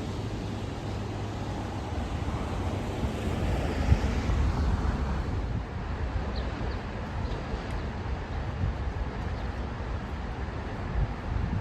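Steady low vehicle rumble that swells louder about four seconds in, with a brief knock at the peak.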